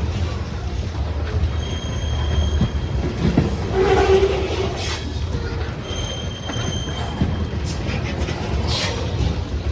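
Norfolk Southern freight train cars rolling past with a steady low rumble, their steel wheels squealing against the rail in thin high tones twice, with a louder squeal about four seconds in.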